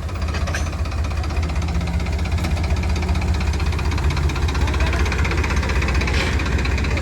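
Tractor diesel engines running steadily under load in a tug-of-war pull, a deep, fast, even throb.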